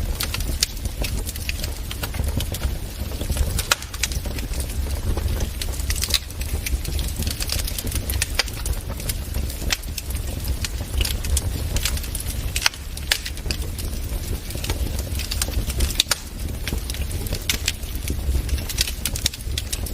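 Wood fire crackling in a fireplace: irregular sharp snaps and pops several times a second over a steady low rumble of the burning fire.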